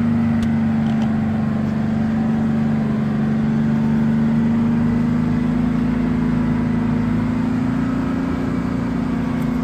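Front-end loader's diesel engine running at a steady speed, its pitch rising slightly near the end.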